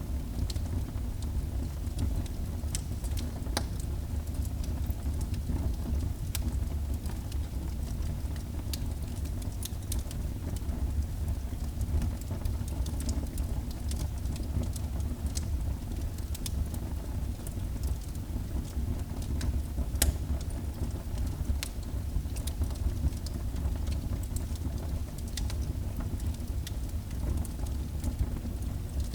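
Wood fire burning in a fireplace: a steady low rumble of the flames with frequent irregular crackles and pops of burning wood, one louder pop about twenty seconds in.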